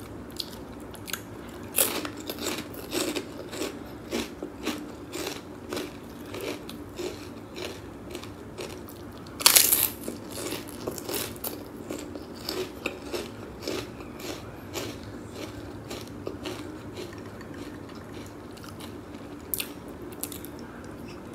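Close-miked eating sounds: a person chewing and crunching mouthfuls of seafood boil, with a steady run of small wet mouth clicks and one louder crunch about nine and a half seconds in.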